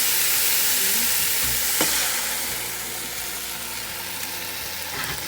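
Chicken and vegetable stir-fry sizzling in a hot pan, with one sharp tap of the cooking utensil about two seconds in. The sizzle eases off slightly in the second half.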